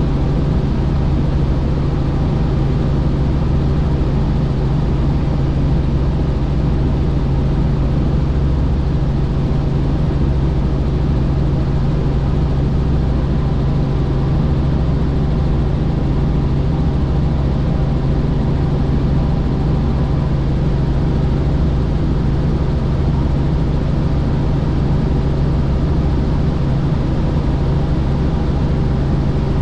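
Helicopter in flight: a loud, steady drone of engine and rotor, with low tones holding a constant pitch.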